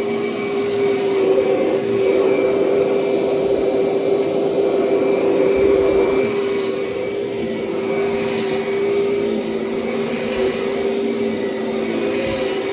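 Kirby upright vacuum cleaner running steadily, its motor holding one even tone with no break.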